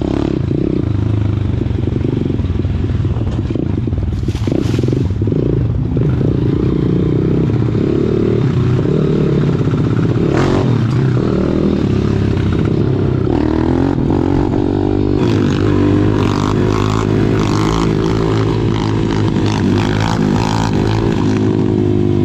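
Small single-cylinder pit bike engine running steadily while being ridden, with a few short clacks and rattles along the way.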